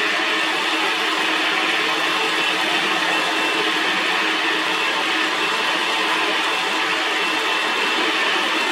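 Metal lathe running with a steady, even whir and several faint steady tones.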